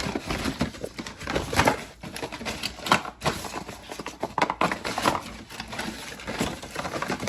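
Irregular light taps, knocks and rustling, as of things being handled and unwrapped on a table.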